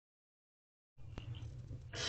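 Silent for the first second, then the low hum of a nest-box microphone with a single click, and a barn owlet's hissing call starting just at the end.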